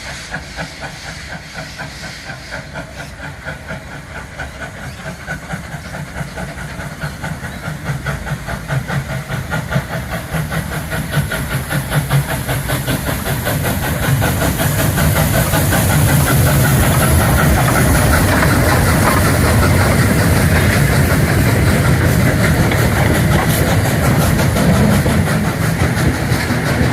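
Two K class steam locomotives double-heading a passenger train away from a station up a grade: quick, even exhaust chuffs over a steady hiss of steam. The sound grows louder over the first half and then stays loud.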